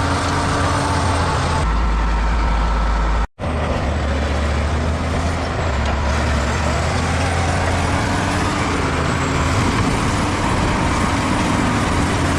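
Bulldozer's diesel engine running steadily under load. The sound cuts out for an instant about a third of the way in and then resumes.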